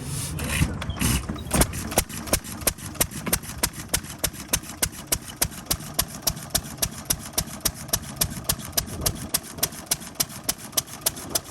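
Single-cylinder antique stationary engine running, its exhaust popping in a steady beat of about four sharp reports a second, after a few irregular louder bangs in the first two seconds.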